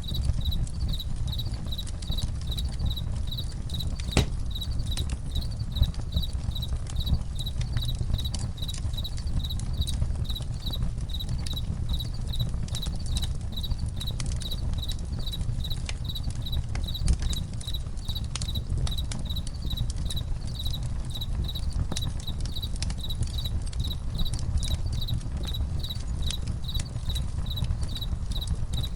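Crickets chirping in an even rhythm, about two to three chirps a second, over the crackle of a campfire and a low rumbling hiss, with one sharper pop about four seconds in.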